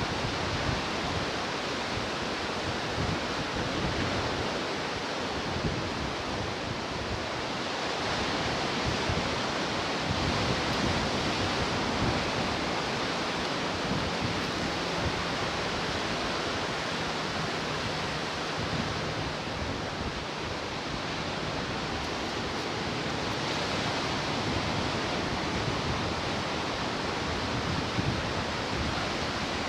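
Ocean surf washing onto the shore in a continuous rush, swelling and easing slowly over several seconds.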